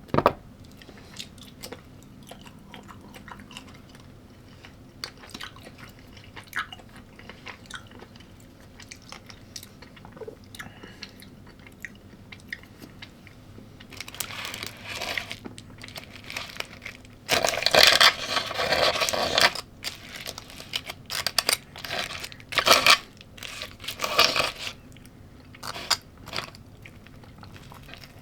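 Close-up chewing and crunching of food, with small scattered clicks at first. About halfway through come louder bouts of crunching, the loudest lasting a couple of seconds.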